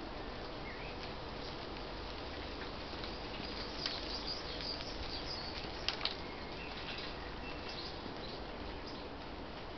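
Faint, scattered bird chirps over a steady hiss, with a few sharp clicks about four and six seconds in.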